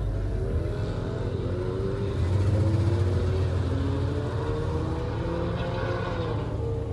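1980 Pontiac Trans Am running at speed, heard from inside the cabin: a steady low engine rumble whose note climbs in pitch several times as the car accelerates.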